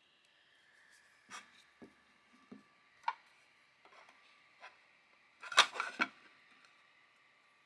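Small objects being handled at close range: scattered light clicks and knocks, then a louder burst of several sharp clicks and clatter about two-thirds of the way through.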